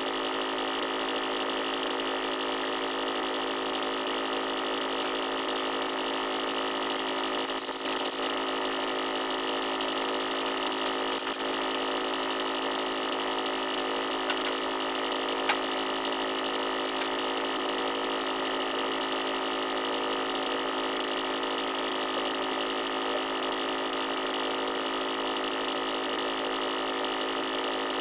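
Steady drone of running machinery aboard a tugboat, holding several constant tones. Two short bursts of high hiss come about a quarter and about two fifths of the way in, and there are a couple of sharp clicks a little past halfway.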